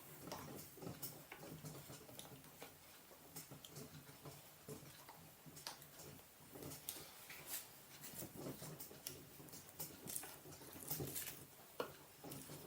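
Faint, irregular small clicks, taps and handling noises of Trampa mountainboard truck parts being fitted back together by hand.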